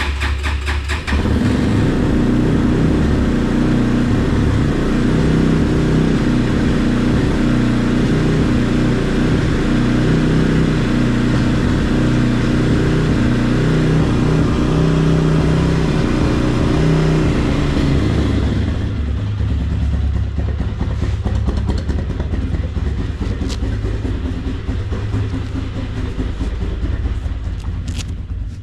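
Regulmoto TE enduro motorcycle engine running steadily at an even pitch; about two-thirds of the way through it drops to a duller, quieter low rumble.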